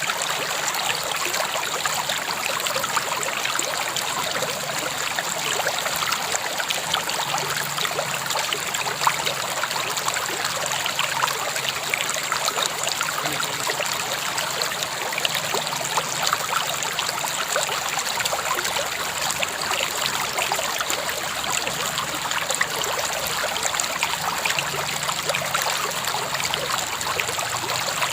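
River water flowing steadily over rocks, a constant rushing with many small splashes and trickles.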